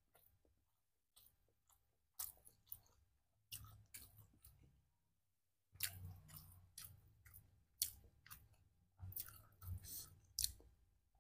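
Faint close-up chewing of a mouthful of rice and fried side dishes eaten by hand, irregular crunches and wet mouth clicks, coming thicker after the first half.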